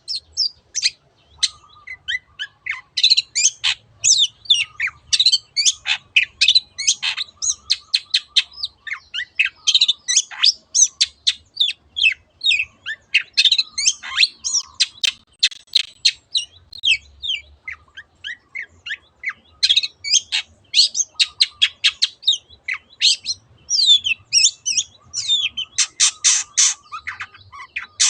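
Long-tailed shrike (cendet) singing a rapid, unbroken stream of short, sharp chattering and whistled notes. A dense run of fast repeated notes comes near the end.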